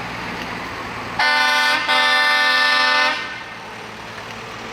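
Truck horn sounding two blasts, a short one then a longer one of about a second, over the steady rumble of vehicles.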